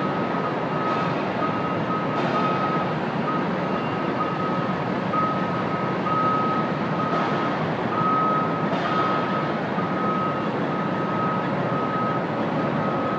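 An electronic warning alarm beeping at one high pitch in uneven, closely spaced pulses, over the steady noise of the running warehouse sorting machinery.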